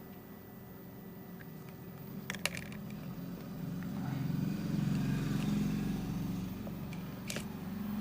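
A motor vehicle engine passing by with a low hum that swells to its loudest midway and then fades. Two sharp clicks fall, one before the swell and one as it fades.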